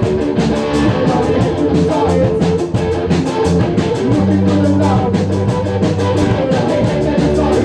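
Live band playing rock music: guitar and drum kit over a fast, steady beat, with held low bass notes in the second half.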